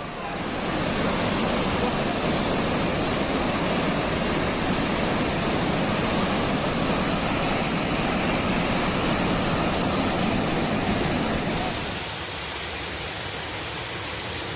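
Steady, loud rush of water like a torrent or surging flood. About twelve seconds in it drops to a quieter, thinner rush.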